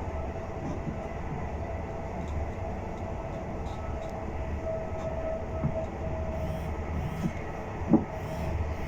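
Inside a Siemens Desiro electric multiple unit running at speed: a steady low rumble with a steady whine above it, and a few short knocks from the running gear, the sharpest about eight seconds in.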